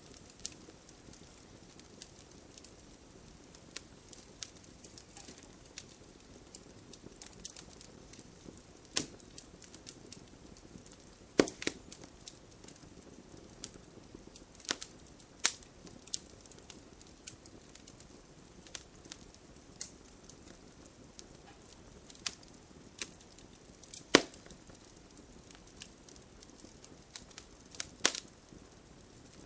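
Wood fire crackling in a fireplace: irregular pops and snaps over a soft hiss, the sharpest pops about 11 seconds and 24 seconds in.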